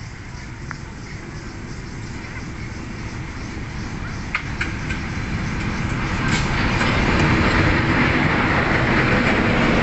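Diesel locomotive hauling a passenger train, approaching and passing close by. Its engine and its wheels on the rails grow steadily louder as it draws level. A few sharp clicks come about four to six seconds in.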